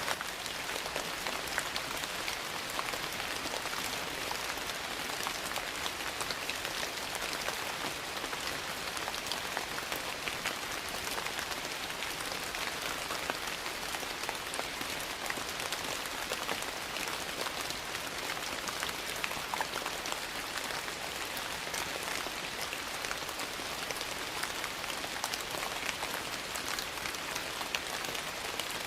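Steady rain, an even hiss, with many small sharp clicks and pops scattered through it from a crackling wood fire in a fireplace.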